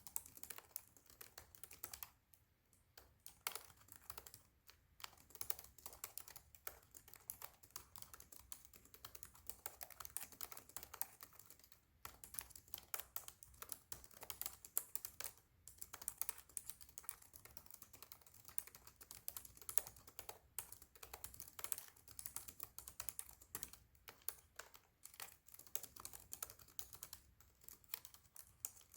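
Rapid typing on a Razer laptop keyboard: a dense run of key clicks broken by a few brief pauses.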